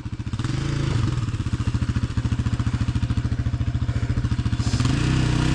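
Yamaha Banshee's twin-cylinder two-stroke engine running at a fast, pulsing idle. The throttle is lightly blipped about a third of a second in and opened a bit more near the end.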